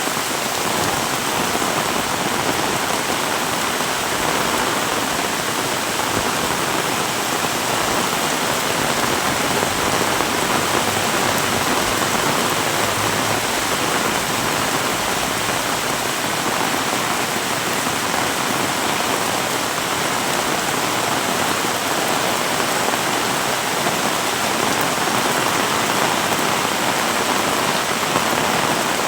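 Heavy rain falling steadily, an even dense hiss of rain hitting the ground and other surfaces.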